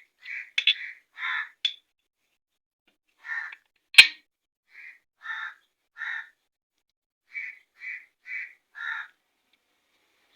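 A bird calling repeatedly in short, harsh calls that come in groups, with one sharp click about four seconds in.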